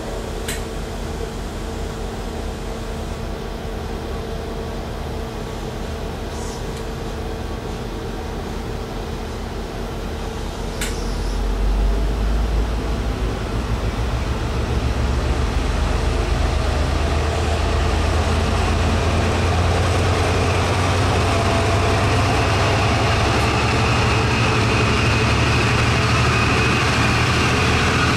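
A diesel train approaching and passing. A steady hum carries the first part; about eleven seconds in, a low engine rumble swells, and the train's running noise then stays loud and steady to the end.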